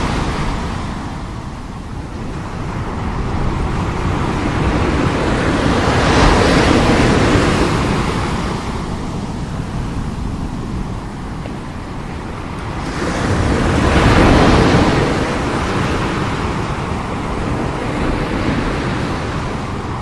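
Strong sea waves crashing and washing onto the shore, a continuous surf roar that swells with a big breaking wave about 6 seconds in and again about 14 seconds in. Wind rumbles on the microphone underneath.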